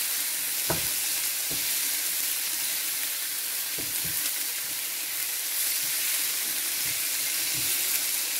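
Chopped onion and tomato sizzling steadily in a nonstick frying pan as they cook down to soften, stirred with a silicone spatula that knocks softly against the pan a few times.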